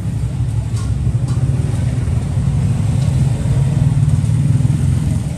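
Low rumble of road traffic, swelling about four seconds in and easing off near the end.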